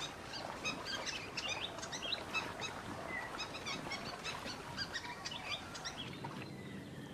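A chorus of small birds chirping: many short, overlapping chirps over a faint background hiss, thinning out about six seconds in.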